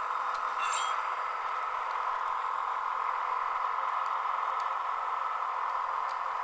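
Model train sound-decoder audio from small onboard speakers: a steady engine drone with a few faint clicks.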